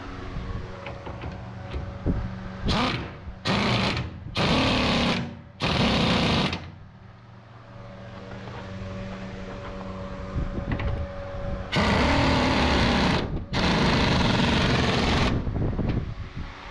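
A power tool runs in six bursts, two brief ones and then four of one to two seconds each, over a steady low hum.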